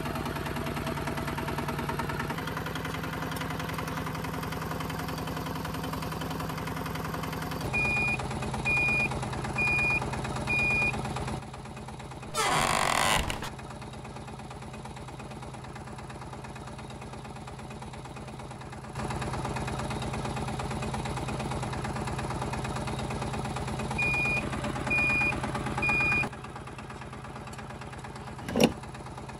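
Small motor of a DIY miniature tractor running with a steady hum. Two runs of four short high beeps come about a third of the way in and again near the end, with a brief loud whoosh in the middle.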